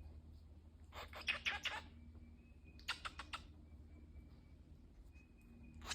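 A cockatiel making two short bursts of rapid, sharp clicking sounds, one about a second in and another about three seconds in.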